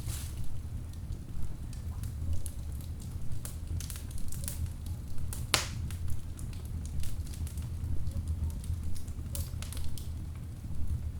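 Wood fire burning in a fireplace: a steady low rumble of flames with irregular crackles and pops from the burning logs, one sharper pop about five and a half seconds in.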